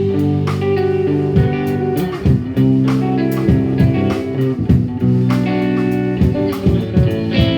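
Instrumental passage of a song: guitar playing sustained plucked chords that change every second or so, with no singing.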